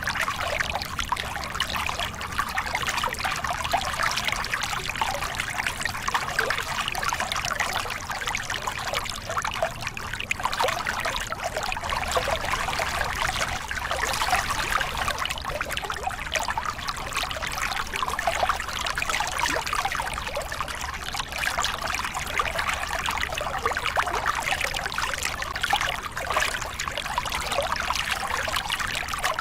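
Small river cascade: water pouring and splashing over rocks in a steady, even rush with a bright, bubbling splash.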